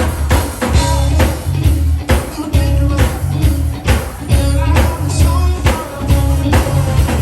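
Live band playing an upbeat funk-rock groove: a heavy bass line and a steady drum beat of about two strokes a second, with guitar, keyboards and some singing over it.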